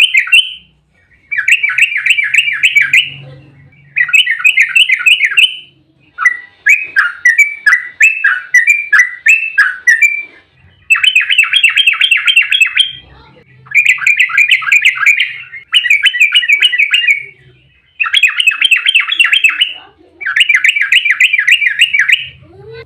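Yellow-vented bulbul (trucuk) singing its fast, rolling chatter in a string of phrases about two seconds long, separated by short pauses.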